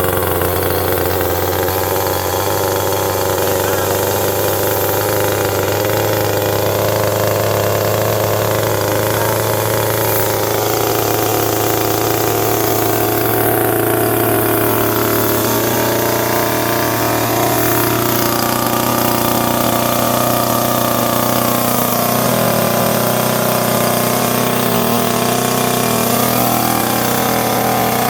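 Husqvarna T525 top-handle chainsaw's small two-stroke engine running steadily and loudly, just after being started.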